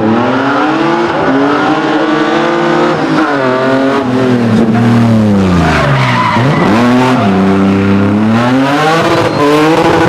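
Rally car engine at full throttle, revving up and dropping again several times, with sharp dips in pitch about three and six seconds in followed by fresh climbs.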